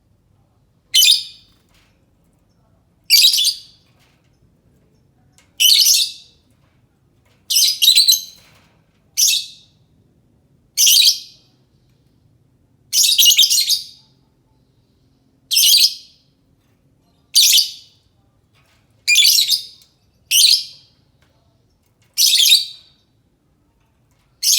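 Lovebird calling in short, high-pitched chirping bursts, about a dozen of them, roughly one every two seconds.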